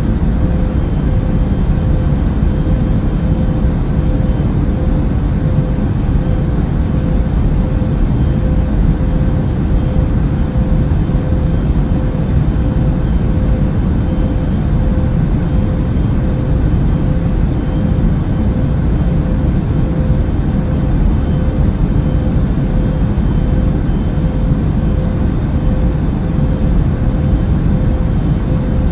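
Steady cabin noise of a jet airliner in cruise: an even, deep rumble of engines and airflow with a faint steady hum over it.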